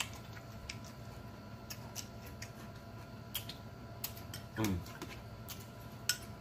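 Close-up chewing and lip-smacking: scattered small wet mouth clicks, with a short hummed "mm" about four and a half seconds in.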